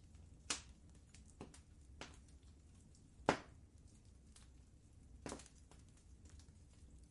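Wood fire crackling in a fireplace: scattered sharp pops and ticks, the loudest about three seconds in, over a low steady rumble.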